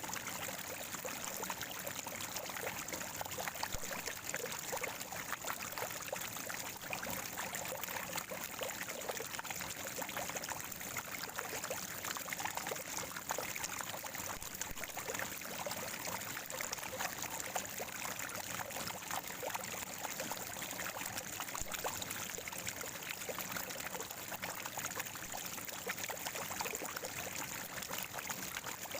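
Natural spring water gurgling and trickling, a steady, unbroken babble of running water.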